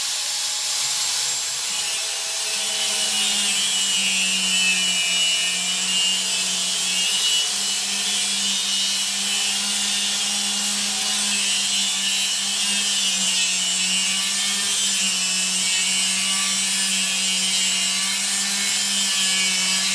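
A corded electric power tool running steadily as it cuts a piece to length. Its steady motor hum sets in about two and a half seconds in and holds.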